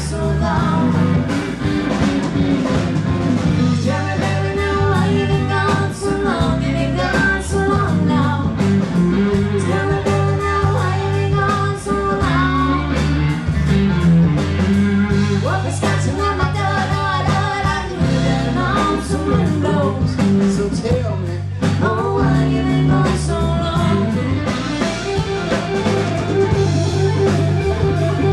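Live band playing a blues-rock song, with electric guitar, bass and drum kit under a singing voice.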